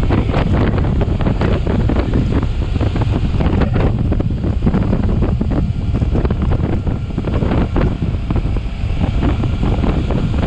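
Wind buffeting the microphone of a camera on a moving motorcycle, a loud, steady, gusting rumble that covers the bike's own running.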